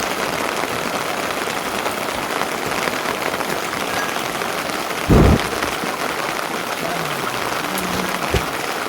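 Steady rain falling, with one short, low thump about five seconds in.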